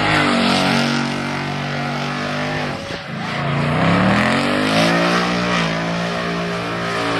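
Car engine revving hard and held at high revs, dropping about three seconds in and climbing back, with a hiss of spinning tyres, typical of a burnout or donut.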